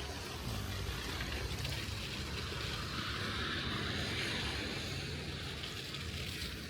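Steady wind noise on the microphone of a moving bicycle, with a low rumble and a hiss from the tyres rolling over a snowy street. The hiss swells slightly in the middle.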